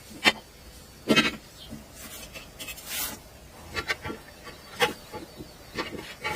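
A string of sharp, irregular knocks and clicks with some scraping between them, about eight in all, the strongest about a second in and near five seconds in.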